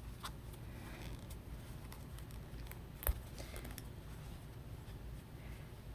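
Faint handling sounds of yarn being worked with a crochet hook, with small scattered ticks and one sharper click about three seconds in, over a low steady hum.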